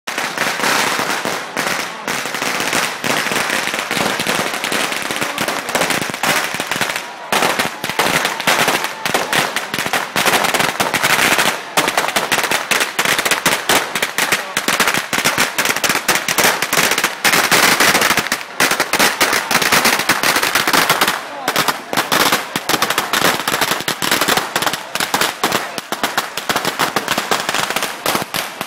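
Bangers (firecrackers) going off in rapid succession, many sharp cracks overlapping with hardly a pause, over the voices of a crowd.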